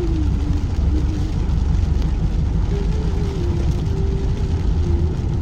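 Car running, heard from inside the cabin: a steady low rumble of engine and road noise, with a faint wavering hum that comes and goes.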